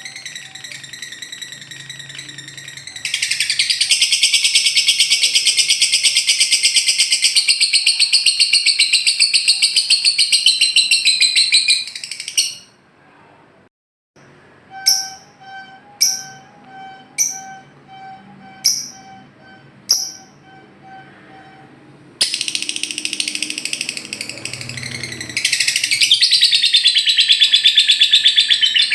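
Lovebird's rapid chattering trill, its long 'ngekek' song, in sustained loud stretches. Midway the trill stops briefly and a run of about six sharp single chirps follows, roughly a second apart, before the trilling resumes.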